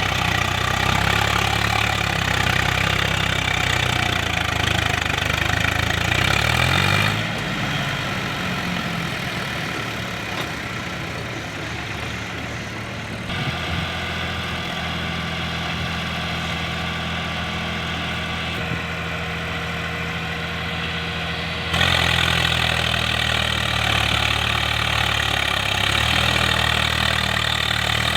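Swaraj 735 FE tractor's three-cylinder diesel engine running while hauling a heavy load of clay. Its pitch drops and it gets quieter about seven seconds in, then it runs steadily until it turns suddenly louder again about twenty-two seconds in.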